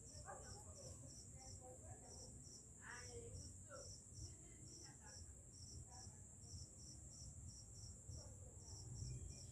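Insects chirping at a steady pulse, about three to four chirps a second over a constant high hum, pausing briefly now and then.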